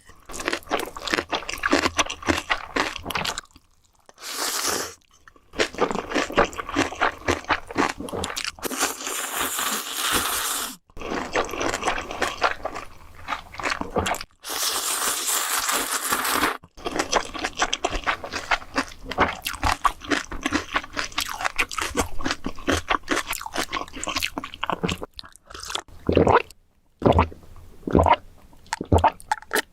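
Close-miked chewing of food with crunchy bites in quick succession, broken by a few short pauses and a couple of longer, smoother noisy stretches.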